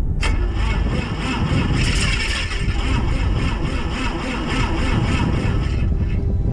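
Light aircraft engine being turned over by its starter on a freezing morning, a steady rhythmic mechanical sound that starts suddenly and stops about six seconds in without the engine catching; this is the cold-start attempt that drained the battery.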